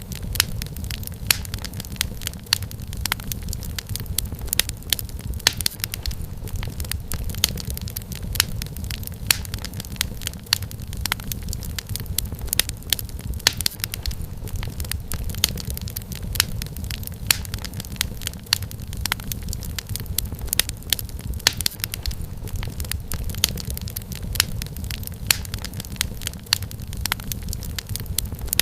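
Wood fire crackling in a fireplace: many irregular sharp snaps over a steady low rumble of the flames.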